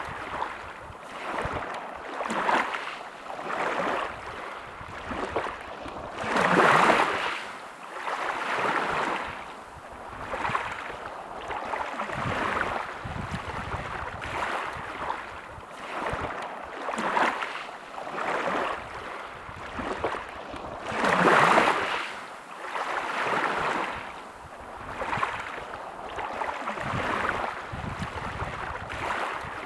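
Sea waves washing onto a shore: a rushing noise that swells and ebbs every second or two, with two bigger waves breaking, about a quarter of the way in and about three-quarters of the way in.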